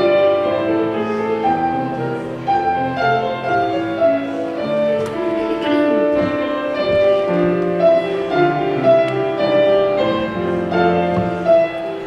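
Instrumental church prelude played on a keyboard instrument: slow, sustained notes and chords.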